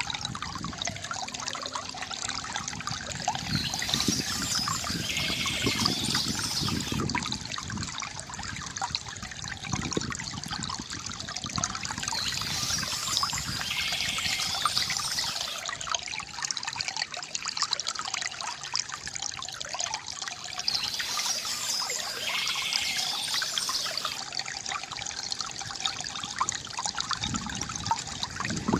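Water trickling and gurgling steadily from a bamboo fountain, with a burst of bird chirping that comes back three times, about every eight seconds.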